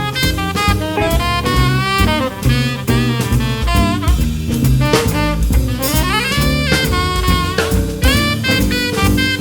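Live jazz band playing a swing blues instrumental passage, with no singing. A horn carries the melody with sliding upward phrases over double bass, guitar and drum kit.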